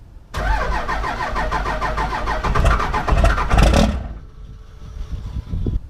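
24-valve Cummins diesel with a P-pump being cranked over by its starter on a cold start, with no grid heater, after sitting for days near freezing; the cranking runs with an even, fast rhythm for about three and a half seconds, swells just before it, and cuts off about four seconds in.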